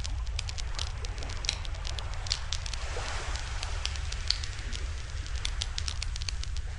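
Wood fire crackling, with many irregular sharp pops and snaps over a soft hiss of burning, and a steady low rumble underneath.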